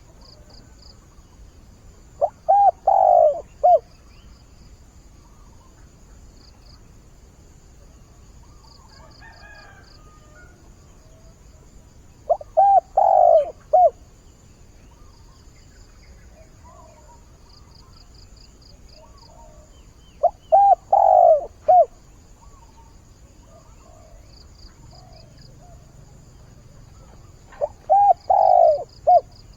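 A spotted dove kept as a decoy bird cooing four times, about every eight seconds, each phrase a short run of low coo notes. This is the calling-out crow used to lure wild doves.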